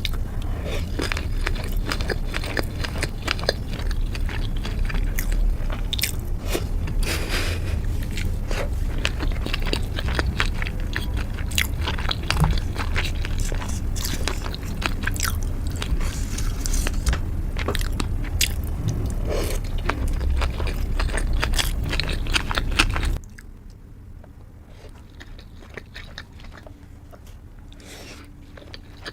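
Close-miked eating of sushi and sashimi: biting and chewing, with many small wet clicks and crunches over a low rumble. A little over twenty seconds in, the sound drops suddenly to quieter chewing.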